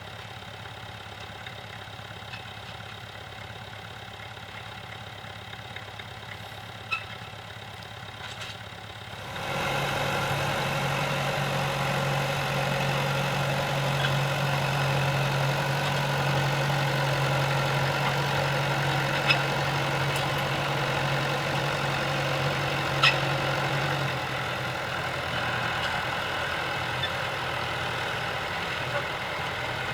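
Tractor engine running steadily, growing sharply louder about nine seconds in and easing back a little near the end, with a few brief sharp clanks.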